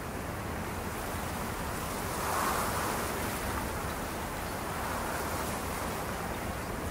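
Steady rush of ocean surf and wind, swelling briefly about two seconds in.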